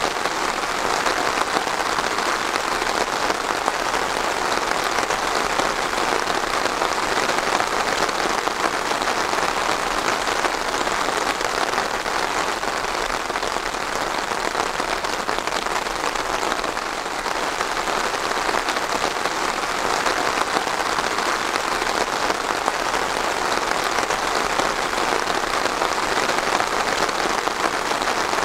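Steady rain falling on a surface, a dense even patter.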